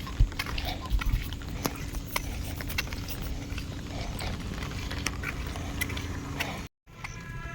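Heavy monsoon rain falling, a steady hiss with many sharp drip and splash ticks, and a couple of low thumps in the first second or so. The sound drops out briefly near the end, then a short pitched call or tone begins.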